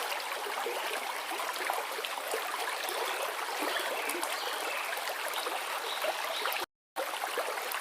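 Forest river flowing, a steady rushing with small bubbling and gurgling sounds. It cuts out completely for a fraction of a second near the end, then resumes.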